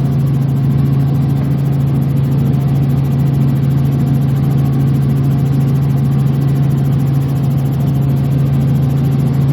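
Aircraft engine running steadily at a constant pitch, a loud, even low hum with no change in speed.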